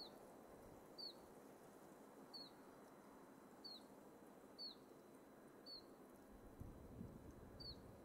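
Faint wind hiss in pine trees with a small bird repeating a short, high, slightly falling chirp about once a second.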